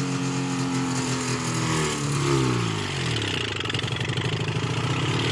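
Vintage snowmobile's twin-cylinder two-stroke engine running. Its revs fall away about two seconds in to a pulsing, uneven idle, then rise again near the end.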